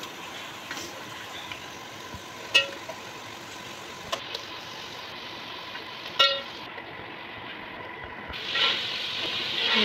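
Chicken pieces frying in hot oil and yogurt masala in an aluminium pot: a steady sizzle with a few short clinks of a metal spoon against the pot, the sizzle growing louder near the end as more chicken goes in.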